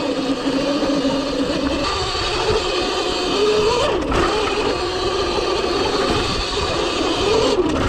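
Cake Kalk OR electric dirt bike under way, its motor whining, the pitch rising and falling with the throttle, over steady tyre and wind noise.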